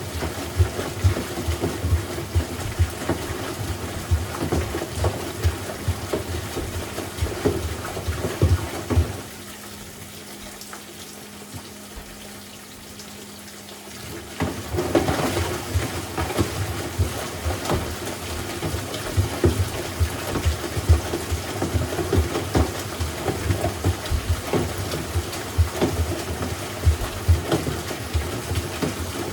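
LG WM6700HBA front-load washer tumbling in its rinse cycle: water sloshing in the drum and a calculator clattering against it in irregular knocks. About nine seconds in the drum pauses, leaving a steady hum for several seconds, and then it tumbles again.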